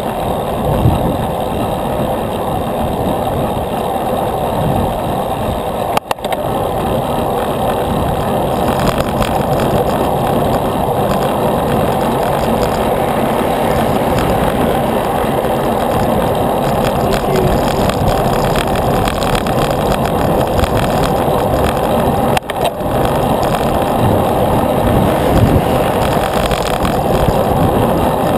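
Steady rushing road noise from riding a bicycle, with wind and tyre noise but no clear pitched engine sound. There are two brief dips, about six seconds in and again about three-quarters of the way through.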